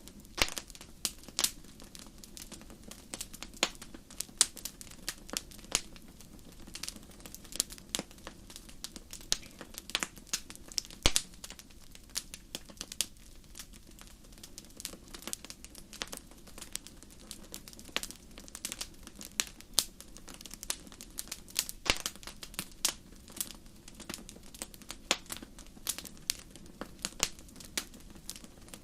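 Wood fire burning in a fireplace, crackling with many irregular sharp pops and snaps over a low, steady rumble of the flames.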